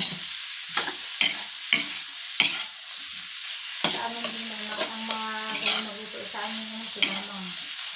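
Beef and onions sizzling in oil in a wok, stirred with a metal spatula that clacks and scrapes against the pan about nine times. About halfway in, a steady low hum joins and lasts until near the end.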